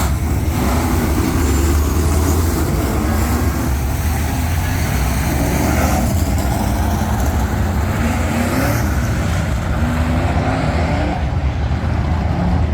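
Several dirt-track race trucks' engines running together, their pitch rising and falling as they rev around the track.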